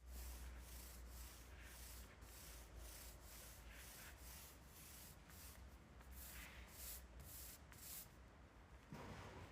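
Faint, rhythmic hand strokes rubbing across an oak veneered plywood panel, about two a second, with a slightly heavier stroke near the end.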